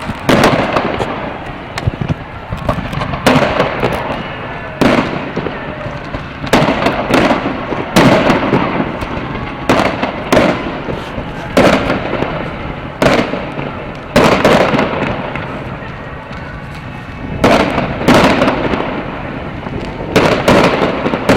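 Fireworks display: aerial shells bursting one after another, each bang followed by a long echoing rumble, with a brief lull before a new run of bursts near the end.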